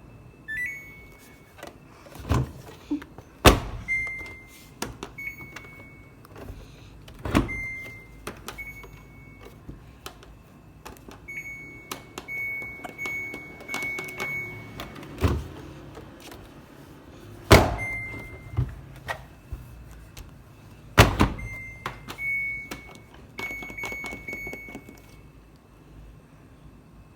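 Samsung washing machine control panel beeping as its buttons are pressed: short high beeps, singly and in quick runs of several, with a handful of sharp knocks and clicks from handling the machine in between.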